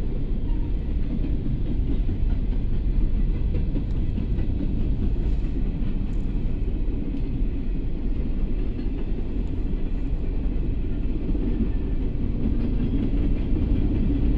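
Norfolk Southern freight train of open-top hopper cars rolling past: a steady rumble of steel wheels on the rails.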